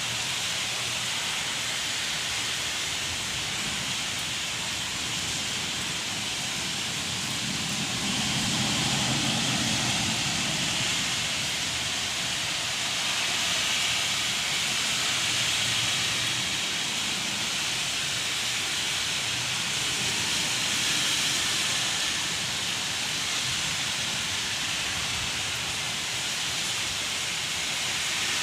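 Steady heavy rain, an even hiss of falling water, swelling a little in low rumble about a third of the way in and again after two thirds.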